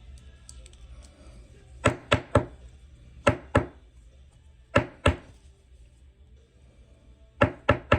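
Sharp taps of a rigid plastic card top loader knocked against a tabletop to settle a trading card inside. The taps come in quick groups of three, two, two and three.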